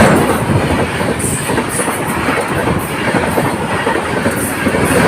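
A long train passing at speed close by, its wheels rumbling and clattering over the rails. The noise is loudest at the start and eases a little after about a second.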